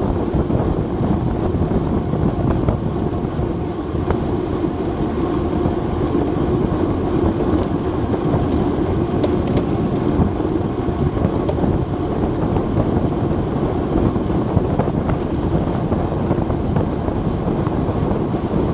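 Wind rushing over an action camera's microphone while riding a road bike: a steady, loud noise with no break.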